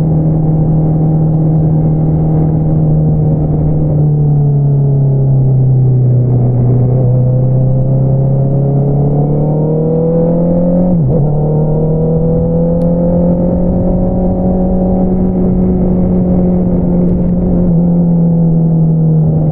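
2022 Honda CBR650R's inline-four engine running through an Akrapovič single-outlet exhaust at steady riding revs. The revs sag for a few seconds, climb again, and drop briefly and sharply about eleven seconds in before settling at a steady, slightly higher note.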